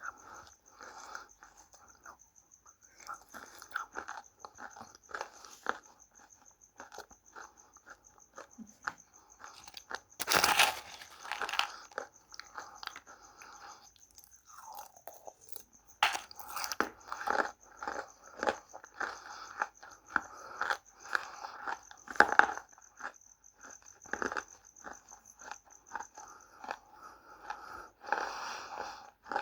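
Close-up crunching and chewing of dry baked clay, multani mitti (fuller's earth) and red mitti. Irregular crisp cracks and chewing crackles run throughout, with a few louder snapping bites, one about ten seconds in and others around sixteen and twenty-two seconds.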